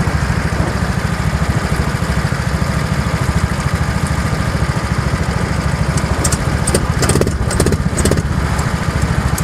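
An engine running steadily at a constant speed, with a few short clicks or knocks about six to eight seconds in.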